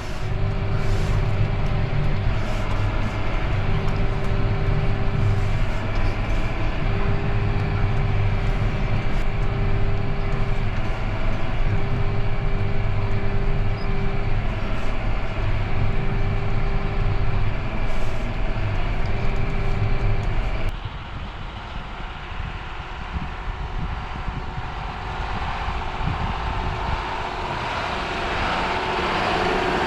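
John Deere 6145R tractor's six-cylinder diesel engine running steadily under load while its blade pushes deep snow. About two-thirds of the way through the sound changes abruptly to a quieter, rougher engine note, and a hiss builds near the end.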